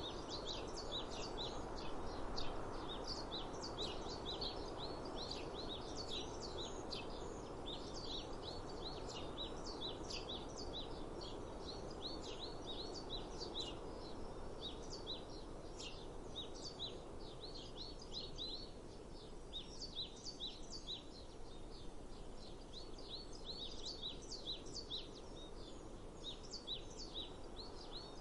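Birds chirping steadily in quick, short, high notes over a steady low rushing background that eases off about two-thirds of the way through.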